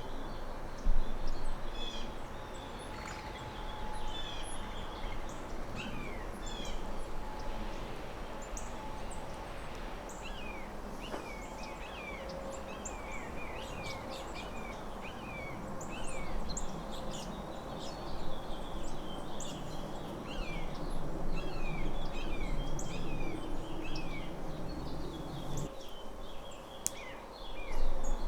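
Several small birds chirping, many short downward-sweeping calls overlapping one another throughout, over a steady low background noise.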